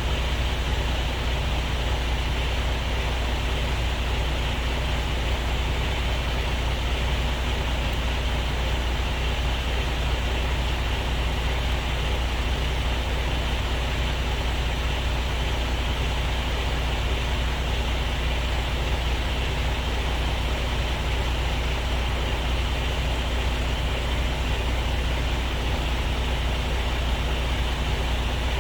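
Truck's diesel engine running steadily: a constant low drone with a faint hum above it, holding the same speed and level throughout.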